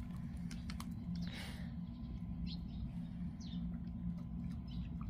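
A stray dog sniffing at and crunching dry cat kibble: scattered small clicks and a few short soft huffs, over a steady low hum.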